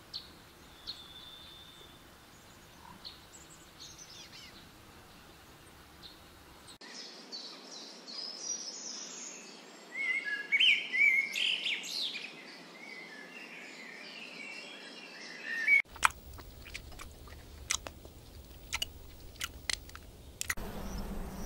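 Birds chirping and calling over a faint outdoor background, busiest and loudest in the middle. After an abrupt change about three-quarters of the way through, a run of sharp, irregular clicks follows.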